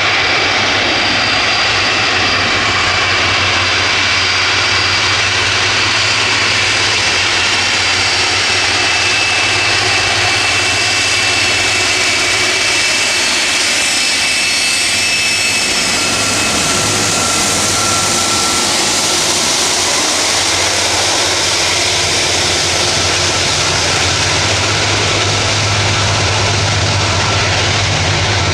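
Boeing 747-400 freighter's four jet engines running close by: a loud, steady noise with high whining tones. The whine fades about halfway through and a lower whine and hum take over.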